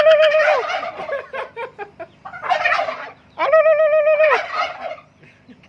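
Domestic turkey gobbling in two loud bursts, one at the start and another from about two and a half seconds in. Each burst is a rapid rattle with a wavering held note.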